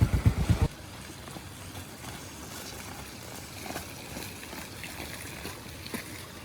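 Motorbike engine running with a rapid, even beat, then stopping abruptly less than a second in. After that there is only a faint steady hiss with a few small ticks.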